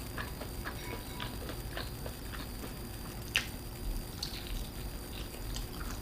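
A person eating: faint, irregular small clicks and smacks of chewing, with one sharper click a little past halfway.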